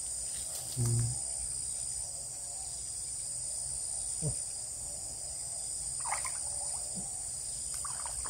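Steady high-pitched chorus of insects, with a few short chirps and a brief low sound about a second in.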